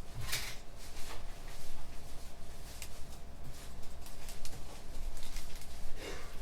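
Internet café room ambience: scattered, irregular clicks and small knocks of keyboards and handling, over a steady low hum. Two louder short rustling sounds stand out, one just after the start and one near the end.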